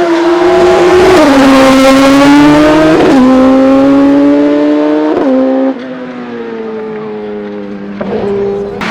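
Hillclimb race car engine accelerating hard under load, its pitch climbing in each gear with quick gear changes about one, three and five seconds in. It is loud at first, then drops away sharply just before six seconds in as the car moves off.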